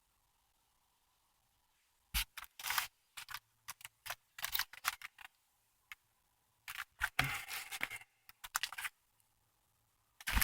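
Handling noise of fireworks packages being moved about: a string of short clicks, taps and scrapes starting about two seconds in, after a near-silent start.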